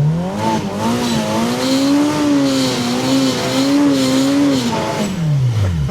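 Turbocharged Polaris RZR Pro R's four-cylinder engine revving up and held high, wavering under heavy load as the side-by-side plows through deep snow, then dropping back toward idle near the end.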